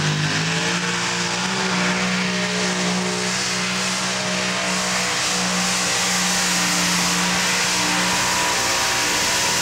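Modified pulling tractor's engines running at full throttle down the track, rising in pitch in the first second and then holding a steady high drone.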